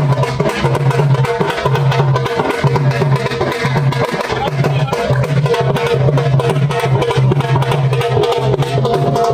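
Traditional Indian folk music played at a fast pace, with rapid drum strokes over a steady held low note and sustained melodic tones.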